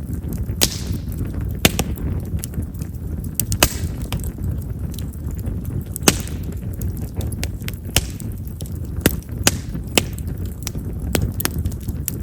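Chestnut firewood burning in an open fire, crackling with irregular sharp pops over a low steady rumble. Chestnut is a wood known to pop because of its large vessels.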